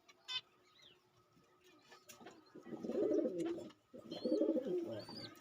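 Small pet parrots making low, warbling chatter in bursts from about halfway through, with a couple of short high chirps near the end; a short click comes near the start.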